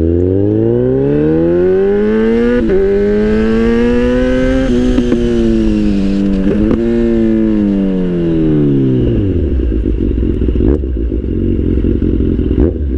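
Kawasaki Z800's inline-four engine with an aftermarket IX Race exhaust, ridden slowly: the engine note climbs for a few seconds, dips and climbs again, then falls away to a rough idle about nine seconds in. A few sharp clicks sound along the way.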